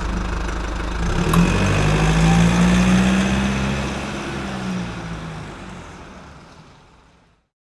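Vehicle engine sound running steadily, picking up slightly about a second in, then fading out smoothly to silence near the end.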